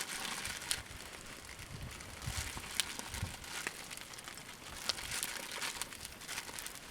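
Campfire crackling with scattered sharp pops, and a few soft low thumps about two to three seconds in.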